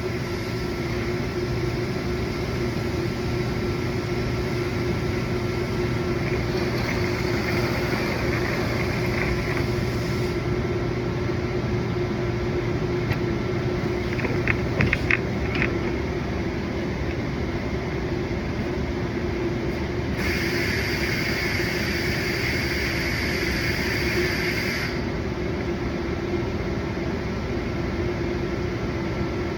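Steady machine hum throughout. A few sharp clicks come about halfway through, and a higher hiss rises for a few seconds on two occasions.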